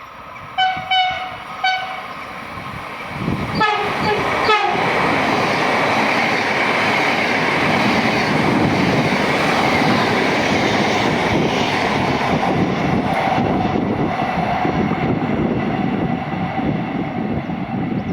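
Passing train sounding its horn in several short blasts in the first few seconds, then running through with a steady rush of wheel and rail noise.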